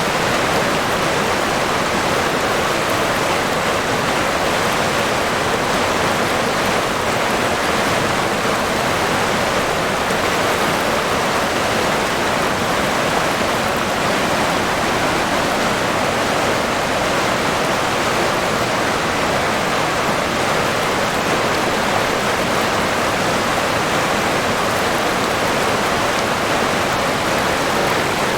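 River water rushing steadily, a constant even hiss with no distinct splashes.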